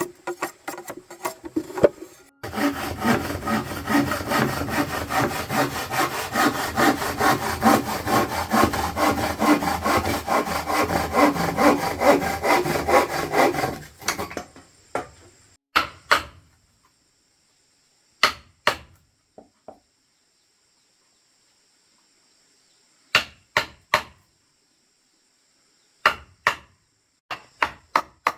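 Hand sawing of wood, a quick run of even rasping strokes lasting about twelve seconds, then a few scattered short knocks in pairs and small groups.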